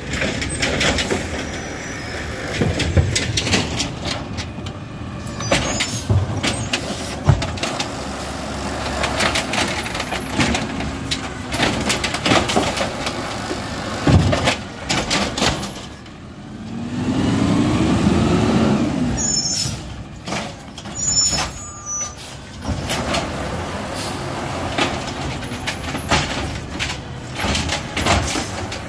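Garbage truck at work: its engine runs under repeated clanks and knocks, and a rising whine comes about two-thirds of the way through.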